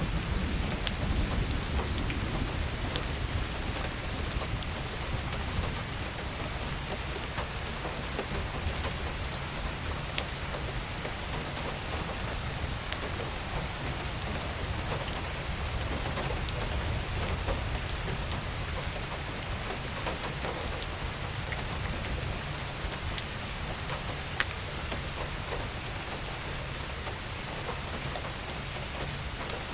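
Steady rain falling, with many sharp ticks of individual drops landing close by and a steady low rumble underneath.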